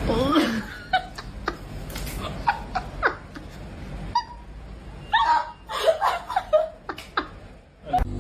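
Laughter in short, broken bursts, thickest in a cluster a little past the middle.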